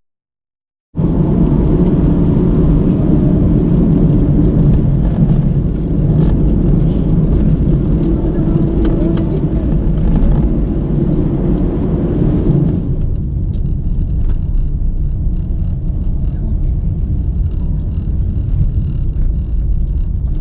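Steady road and engine rumble of a car driving along a road. After a brief silent gap at the start, the higher tyre hiss drops away about two-thirds of the way through, leaving a duller low rumble.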